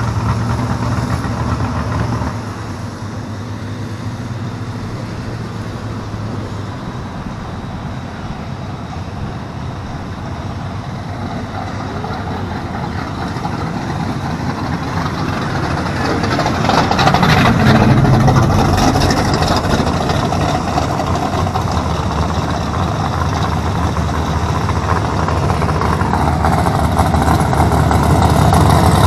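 Drag-racing hot rod engines idling in the pits, a steady low running hum. It drops slightly about two seconds in, swells around seventeen seconds, and grows louder near the end as an engine comes close.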